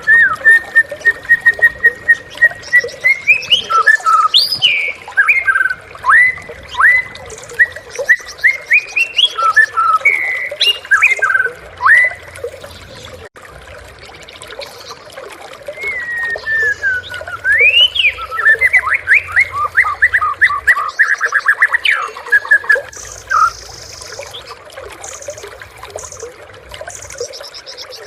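White-rumped shama (murai batu) singing a loud, varied song. It opens with a quick run of repeated whistled notes, then sweeping whistles and chatter. After a pause of a few seconds midway comes a falling whistle and a rapid trill, and the song goes quieter toward the end.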